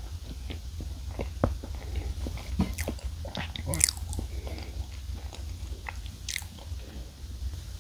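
Close-miked chewing of soft Choco Pie cake and marshmallow: irregular wet mouth clicks and smacks over a low steady hum.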